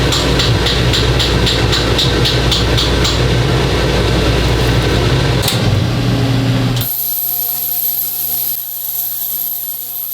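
Jeweler's bench power tool running with a steady hum and a quick ticking, about four ticks a second, for the first few seconds. About seven seconds in the sound changes suddenly to a quieter, steadier motor with a high whine.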